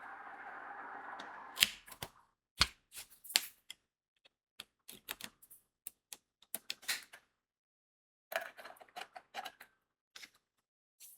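Crystal diamond-painting beads rattling briefly in a plastic tray, then a run of light, irregular clicks and taps as the beads are picked up with the drill pen and pressed onto the sticky canvas.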